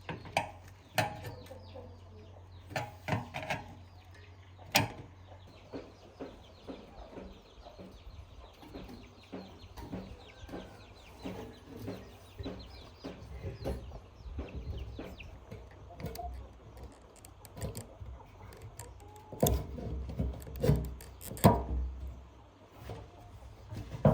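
Chickens clucking, with irregular sharp knocks and taps throughout, the loudest bunched near the end.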